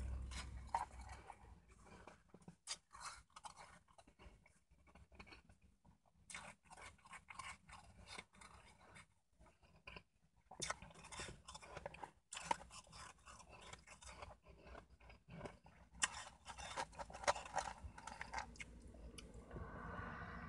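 Close-up chewing and crunching of a mouthful of shaved ice: spells of crisp crackling with short pauses between them.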